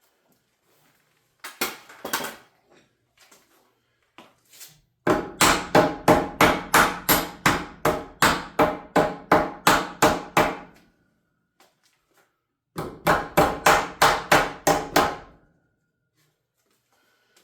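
Hammer blows on wood framing: a few scattered hits, then two runs of quick, even strikes at about four a second, each blow ringing with a short metallic tone.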